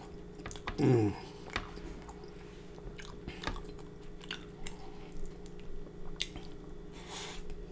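Close-miked wet chewing of sloppy joe and noodles, with lip smacks and many small mouth clicks. About a second in, a short hum of the voice that falls in pitch is the loudest sound.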